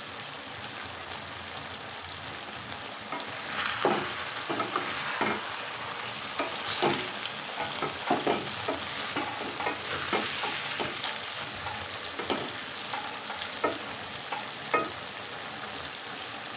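Small fish and vegetables sizzling in hot oil in a pan, with a steady hiss, while a spatula stirs them. Irregular clicks and scrapes of the spatula against the pan come in from about three seconds in.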